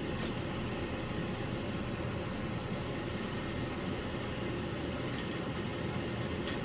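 Steady low hum and hiss of something running continuously, with faint light clicks near the start and near the end.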